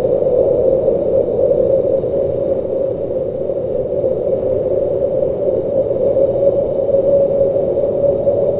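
Blizzard wind blowing steadily: an unbroken whooshing noise centred low in pitch, with a deep rumble beneath and little hiss above.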